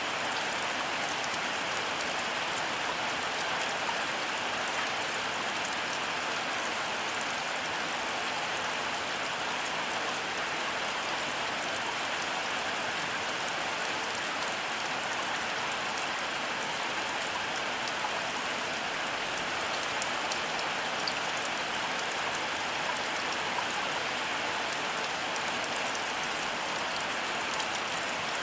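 Heavy rain falling steadily: a dense, even hiss with fine patter of individual drops, unchanging throughout, with no thunder.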